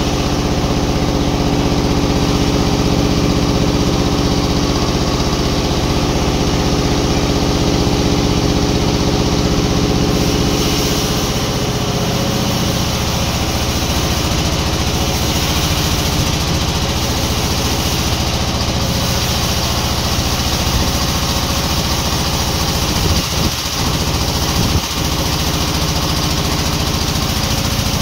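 Sawmill machinery's engine running steadily. Its note shifts lower about ten seconds in, and it briefly dips twice near the end.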